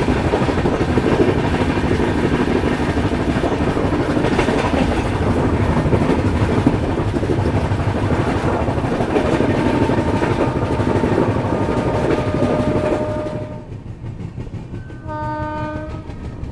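Passenger train running at speed, heard from an open coach door: a steady loud rumble of wheels on the rails with wind. A horn is held faintly for a few seconds in the latter part. The rumble drops suddenly about three-quarters of the way through, and a short horn blast sounds near the end.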